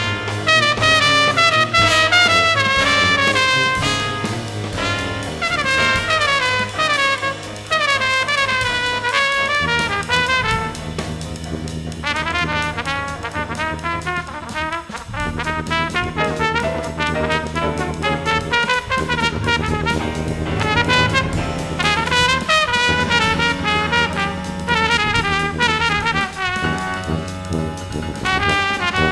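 Jazz brass ensemble music: trumpet lines moving over low held bass notes, which step up in pitch about ten seconds in.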